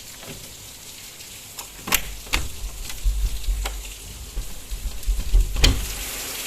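A window being unlatched and opened: several sharp clicks and knocks over a steady crackling hiss, with a low rumble in the middle.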